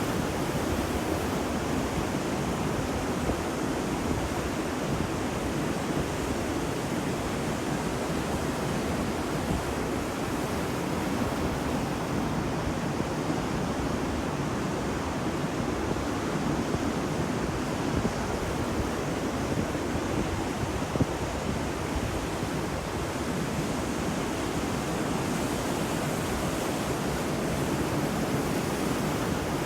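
Ocean waves washing on a beach as a steady, even roar of surf, with no distinct single breakers; a brief louder splash about 21 seconds in.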